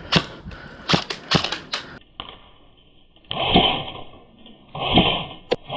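Airsoft guns firing: several sharp single cracks in the first two seconds. The sound then turns muffled and dull, with two louder bursts about a second and a half apart.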